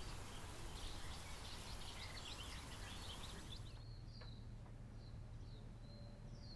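Faint outdoor ambience of small birds chirping. A dense flurry of quick high chirps over a steady hiss thins out after about three and a half seconds into a few separate chirps.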